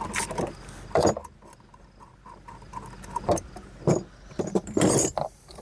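Several separate clinks and knocks of steel shock-absorber parts being handled and fitted together by hand.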